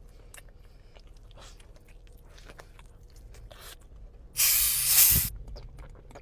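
Close-miked chewing and biting of food, with faint crunches, then a loud hissing noise lasting about a second, about four and a half seconds in.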